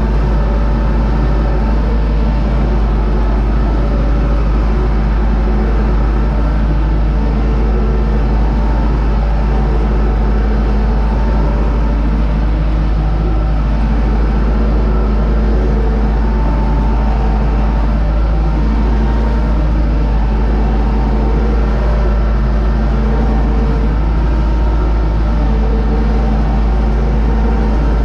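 UTB Universal U650 tractor's four-cylinder diesel engine running steadily under load, towing a SUP-21 seed drill while sowing wheat.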